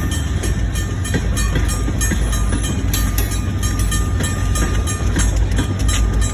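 Train cars rolling slowly in a railroad pushback move: a steady low rumble with quick, regular ticking above it.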